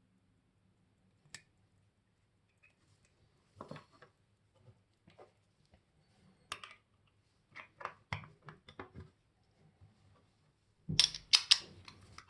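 Scattered light clicks and small taps of a mechanical wristwatch and bench tools being handled, with a quick run of several sharper, louder clicks near the end.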